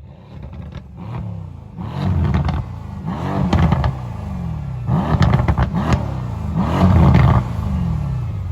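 Mercedes-AMG C63 V8 exhaust as the engine is revved several times in quick succession, each rev climbing and dropping back to idle.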